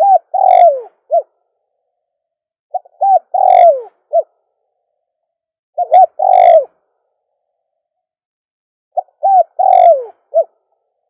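Spotted dove cooing: four repeated phrases about three seconds apart. Each is a couple of short coos, a longer falling coo and a short closing note.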